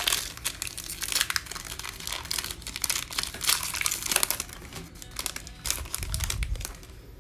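Foil trading-card pack wrappers crinkling and tearing as packs are opened by hand, a run of irregular crackles.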